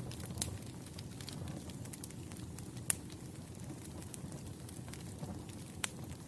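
Wood campfire burning with a steady low rumble of flames and scattered sharp crackles and pops, the loudest about three seconds in and another near the end.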